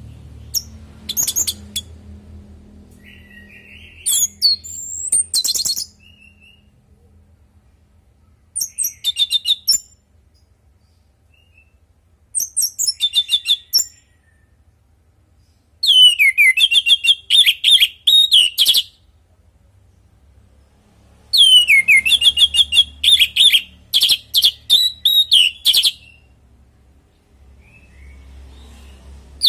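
Orange-headed thrush (anis merah) singing in about six separate phrases with short pauses between them. The phrases are fast runs of high, repeated notes mixed with swooping lower notes, and the later phrases are longer.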